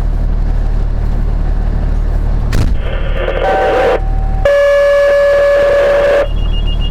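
Fire dispatch two-tone page sounding over a radio speaker: a higher tone held about a second, then a lower tone held about two seconds, alerting the fire company to a call. Before it a low steady rumble, then a click and radio hiss as the channel opens.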